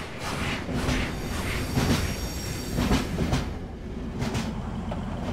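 A train rolling along the track, its wheels clacking over the rails again and again, with a high wheel squeal in the middle.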